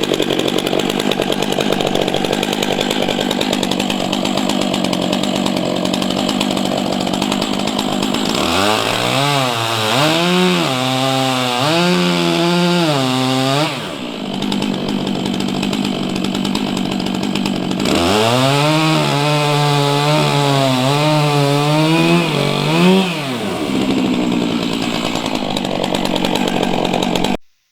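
Stihl MS-661 two-stroke chainsaw running at high throttle on a test cut with a freshly sharpened chain. Twice, for about five seconds each, the engine note stands out and wavers up and down. The sound cuts off abruptly near the end.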